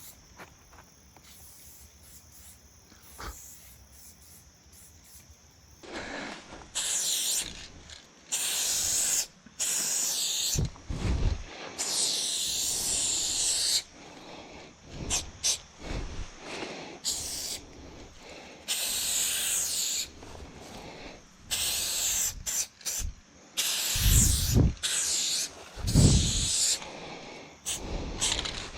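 Aerosol spray paint cans hissing in repeated bursts of one to two seconds each, starting and stopping abruptly, with a few low thumps in between. The first several seconds are a faint steady high hiss before the spraying begins.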